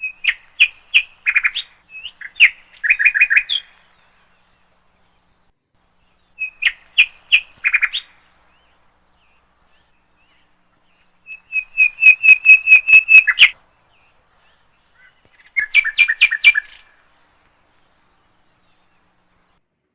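A songbird singing four short phrases of fast, repeated chirping notes, with pauses of a few seconds between them.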